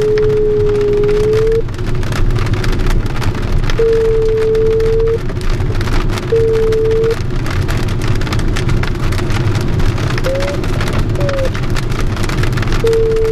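Rain and airflow rushing over a JS-1 sailplane's canopy in a steady, loud hiss. Over it, the glider's variometer sounds a steady tone in several separate stretches of a second or so, sliding briefly up and then down a little after the middle.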